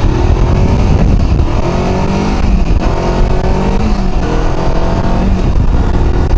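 Kawasaki Versys X-300's 296 cc parallel-twin engine accelerating hard from a stop. Its pitch climbs and drops back with each of several quick upshifts, heard under wind rumble on the microphone.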